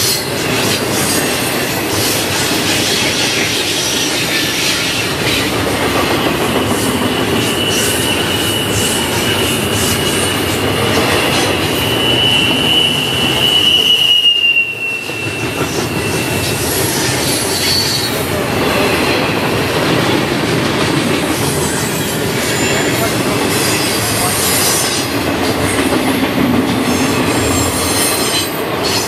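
BNSF double-stack container train passing, its steel wheels running on the rails with a steady loud noise. A single high wheel squeal sets in several seconds in, builds to its loudest around halfway and fades out soon after.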